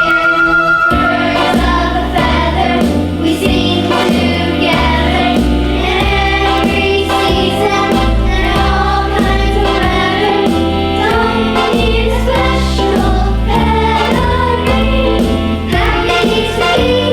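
A group of voices singing a song in chorus over an instrumental accompaniment with a moving bass line.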